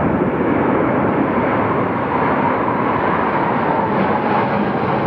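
Military aircraft passing overhead in a flypast: a steady, loud rush of engine noise with a faint tone that falls slightly in pitch in the second half.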